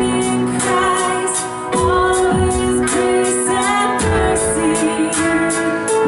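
Live worship band playing a song with sung vocals over held chords and a steady drum beat.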